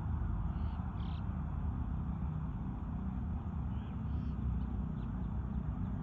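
Steady low outdoor rumble with a few faint, short bird calls about a second in and again around four seconds in.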